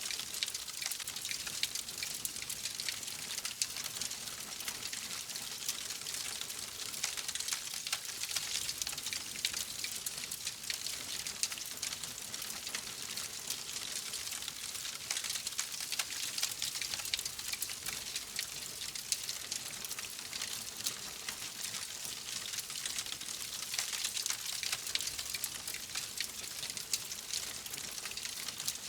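Wood fire in a fireplace crackling steadily, a dense run of small pops and snaps over a soft hiss.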